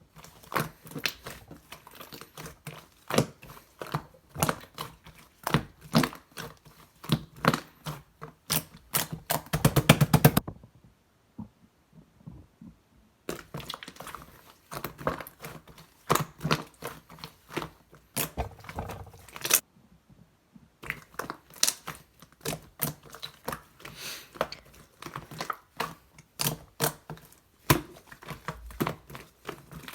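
Slime being pressed, stretched and poked by hand, giving irregular crisp clicks and pops from trapped air, with a quick run of rapid clicks about ten seconds in. It stops twice for a few seconds.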